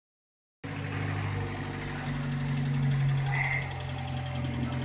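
Engine idling steadily through an aftermarket sport exhaust with an exhaust valve, cutting in abruptly about half a second in.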